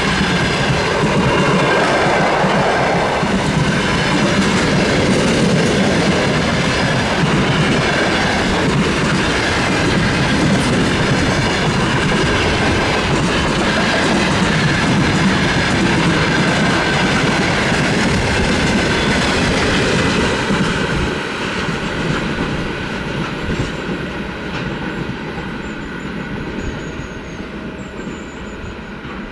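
Train hauled by a VL80S electric locomotive rolling past close by, wheels clattering over the rails with a steady ringing tone. About twenty seconds in, the sound starts to fade as the train moves away.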